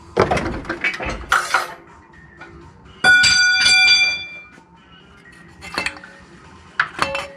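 Metal clanking and clattering of tools and engine parts. About three seconds in comes a loud metallic ring, struck twice and dying away over about a second, and more sharp clanks follow near the end.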